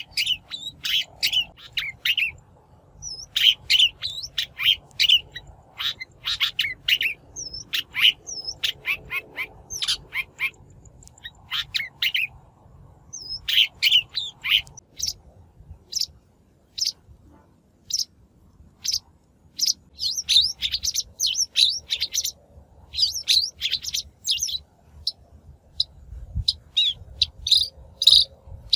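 Long-tailed shrike calling: quick series of short, sharp notes in clusters with brief pauses, thinning out for a few seconds midway.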